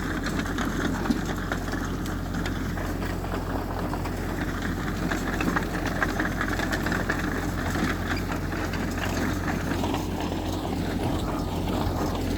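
Heavy earthmoving machinery engine running steadily, with a constant low hum and a few faint knocks.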